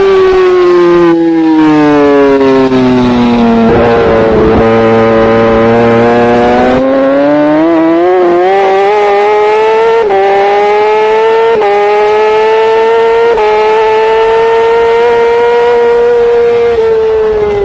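Racing superbike engine at race pace, heard from an onboard camera. The revs fall smoothly over the first few seconds as the bike slows and stay low briefly. From about seven seconds in they climb again through several quick gear changes, then hold high and fairly steady toward the end.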